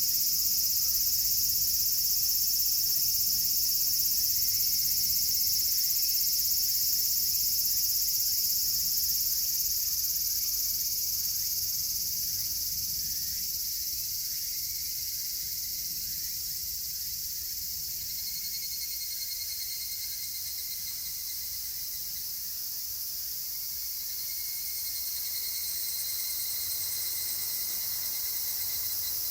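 A summer chorus of many cicadas, a dense, steady high hiss. In the last third a fainter repeated call comes and goes beneath it.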